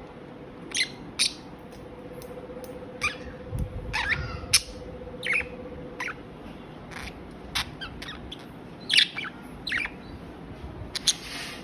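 Budgerigars chirping and squawking in short, sharp calls scattered irregularly, some in quick pairs. A faint steady hum runs underneath for the first half.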